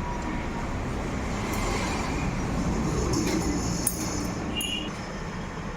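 Light metallic clinks of hand tools and engine parts being handled during a motorcycle engine teardown, a few in the second half, over a steady background rumble.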